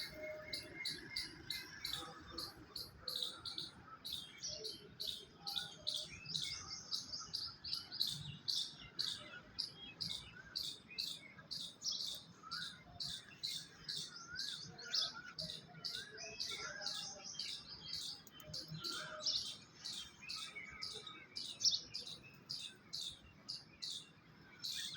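Several small birds chirping rapidly and continuously, short high chirps several times a second, with a few softer warbled phrases lower down.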